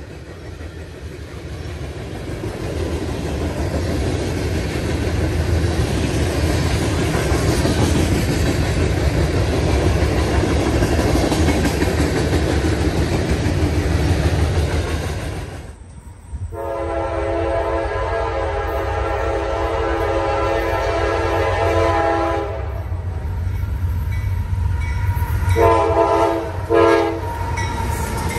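Freight train rolling past, its steel wheels rumbling and clattering over the rails. About sixteen seconds in, a locomotive air horn sounds a multi-note chord in one long blast of about six seconds, then shorter blasts near the end.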